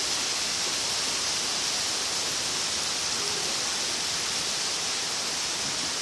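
Pouring rain during a thunderstorm: a steady, even hiss of heavy rainfall.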